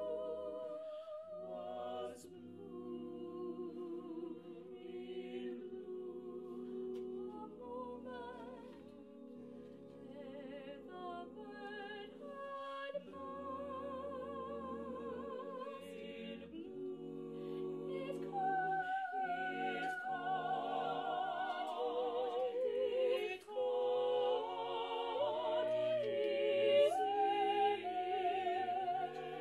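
Mixed choir singing a slow, unaccompanied part-song in sustained chords, the upper voice holding long notes with vibrato. The singing swells louder in the second half.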